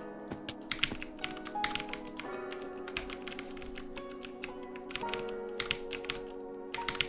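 Computer keyboard typing: quick, irregular key clicks, several a second, over background music with held chords that change every few seconds.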